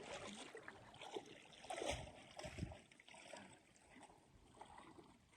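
Faint, irregular splashing and trickling of water as a small boat is paddled, with a few soft knocks.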